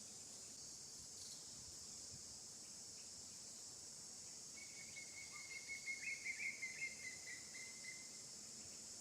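Steady high-pitched insect chorus. From about halfway through, a high pulsing trill rises over it for roughly three seconds, loudest near its middle.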